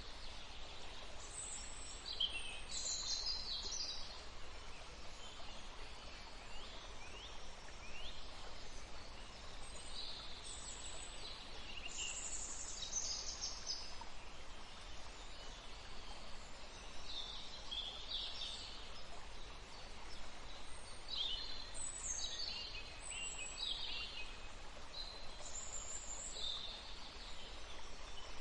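Steady rush of running water, with small birds chirping and calling over it throughout.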